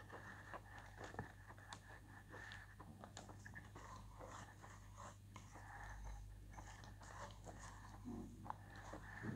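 Faint, close-up chewing and mouth sounds of a person eating a wet white chalk paste from a wooden spoon, with many small clicks and crunches.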